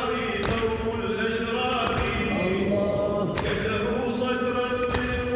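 A crowd of men chanting a Shia latmiya together in a large hall, joined by chest-beating thumps about every one and a half seconds.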